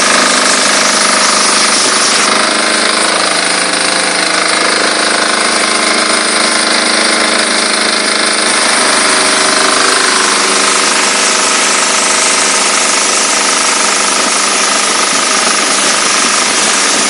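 Diesel-powered high-pressure washer running: a steady diesel engine and pump drone under a loud hiss. A higher hiss joins about two seconds in and drops away near the middle.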